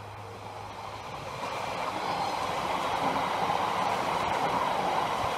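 Class 345 electric multiple unit passing close by at speed: a rush of wheel-on-rail noise that swells over the first couple of seconds and then holds steady as the coaches go by.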